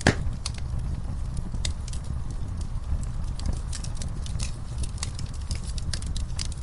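Wood fire crackling with scattered irregular pops, a sharp one right at the start, over a steady low rumble.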